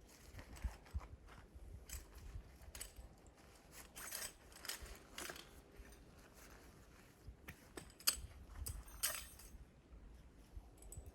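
Handling noises: scattered small clicks and short rustling scrapes at an uneven pace, busiest about four to five seconds in and again around eight to nine seconds.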